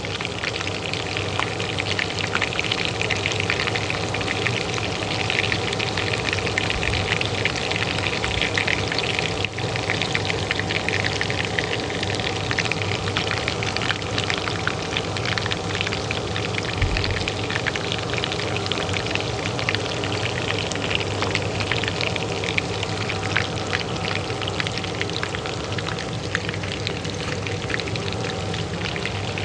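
Oil frying in a pan, a steady dense sizzle and crackle, over the continuous hum of a kitchen range hood fan.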